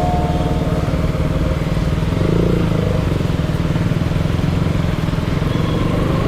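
KTM Duke motorcycle's single-cylinder engine running steadily at an even speed.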